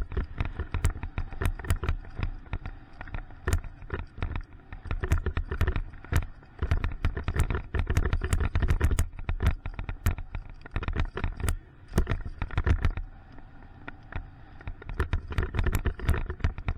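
Mountain bike riding down a dirt trail: rumbling tyre and wind noise with frequent sharp clicks and rattles as the bike goes over bumps.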